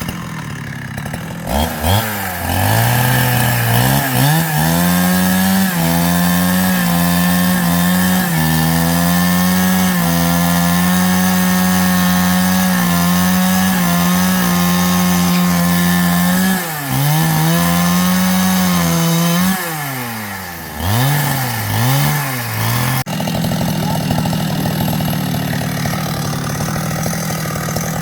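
Small petrol engine of a handheld power tool running at high speed, dipping and surging in pitch several times as it takes and drops the load of cutting into wood, then settling to a lower, steadier speed about 23 seconds in.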